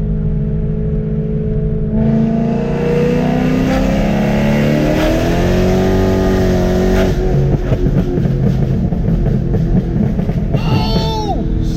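Straight-piped 4.0-litre V8 of a 2010 BMW E92 M3 with a Gintani tune, run up toward 6,000 rpm. The exhaust note is steady at first. About two seconds in it gets louder and climbs in pitch for several seconds, levels off, then drops away about seven seconds in to a rougher, uneven sound.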